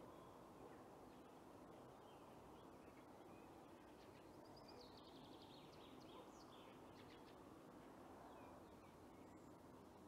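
Faint songbirds chirping over a steady low hiss of outdoor background noise, with a quick falling run of notes about four to five seconds in.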